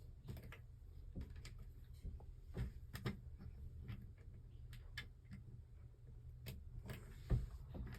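Faint, irregular clicks and taps of small plastic Lego pieces being handled and pressed together, with one louder knock about seven seconds in.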